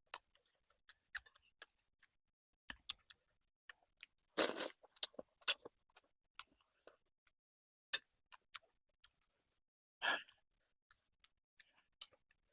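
Close-miked eating of chicken meatball noodle soup: scattered wet mouth clicks and smacks of chewing, with two short, louder noisy sounds about four and a half and ten seconds in.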